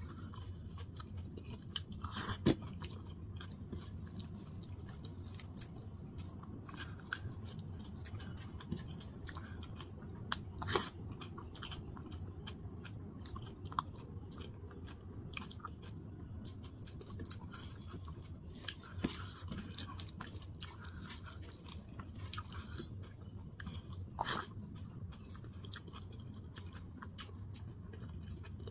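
Close-up eating sounds of dal and rice eaten by hand: chewing, with the wet squish of fingers mixing rice on a steel plate and a few sharp clicks. A steady low hum runs underneath.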